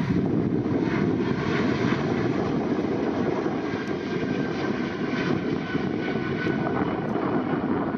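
Jet airliner engines running with a steady rumble and a faint high tone.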